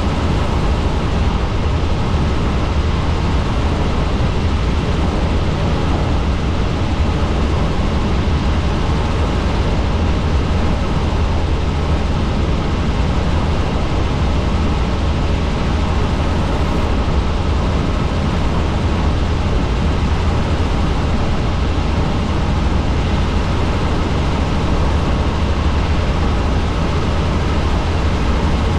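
Helicopter in flight: steady, loud rotor and engine noise with a deep rumble.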